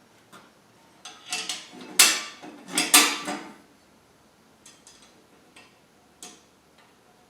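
Metal table parts and hardware clinking and clattering as they are handled and fitted together, with a run of clanks about a second in, the loudest two near two and three seconds, then a few light clicks.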